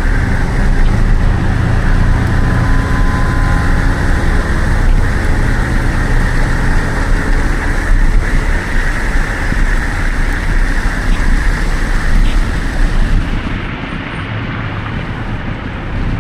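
Steady traffic and wet-road noise with a heavy low rumble, heard from a moving bicycle in the rain. It turns quieter about 13 seconds in.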